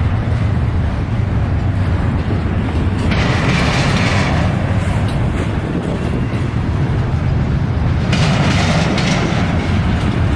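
Freight train cars rolling past on the rails, a steady loud rumble of wheels on track, with hissier stretches about three seconds in and again about eight seconds in.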